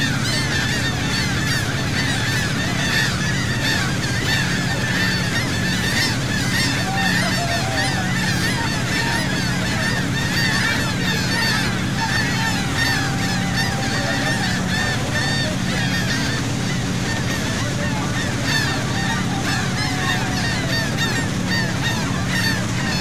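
A large flock of seagulls calling without pause, many short cries overlapping, over the steady low hum of the boat's engine.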